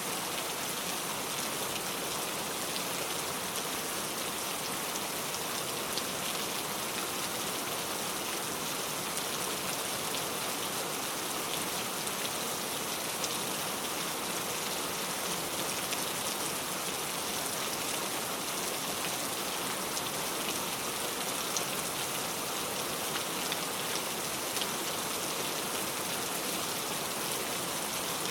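Steady rain falling on a car, a dense even patter of many small drops tapping on the body.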